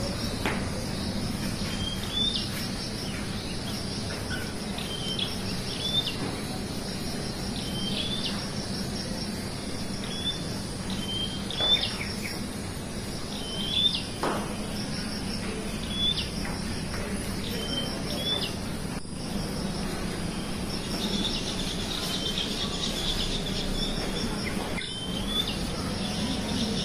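Birds chirping: short rising chirps repeating every second or two over a steady low hum, with a couple of sharp knocks near the middle.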